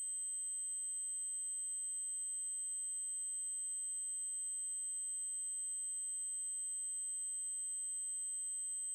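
Synthesised 8192 Hz triangle-wave tone: a single high-pitched tone held steady and unbroken.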